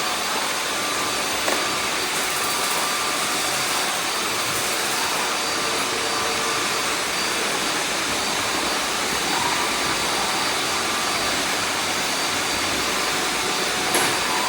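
Many robot vacuum cleaners running at once: a steady, even whir of motors and brushes with a faint high whine held throughout.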